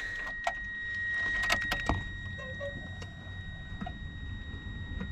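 Keys jangling and scattered clicks and knocks inside a Subaru as it is readied to start, with a faint steady high-pitched tone through the first two seconds; the engine is not yet running.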